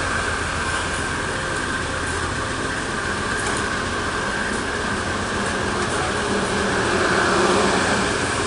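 Shore Line East passenger train pulling out of the station under a GE P40DC diesel locomotive, its coaches rolling past with a steady rumble and a steady high tone, swelling slightly near the end.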